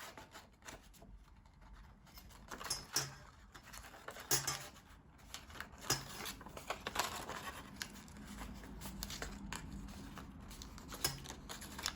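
Thin printed card being handled and bent into shape by hand, a scatter of crinkles, light scrapes and small taps, several sharper ones spread through.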